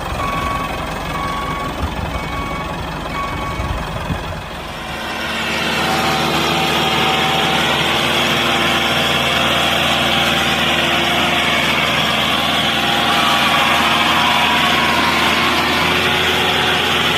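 Mini tractor's motor running steadily, with about four short beeps in the first few seconds before the motor grows louder.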